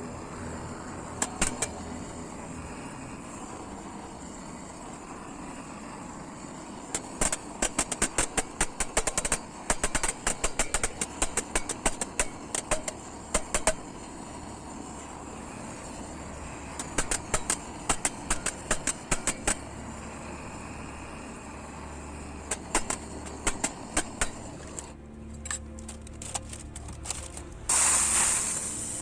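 Hammer striking the sheet metal of a Soomloom Ideal folding wood stove to straighten its warp, in quick runs of blows with pauses between, over a steady rushing noise. Near the end a loud hiss lasts about a second.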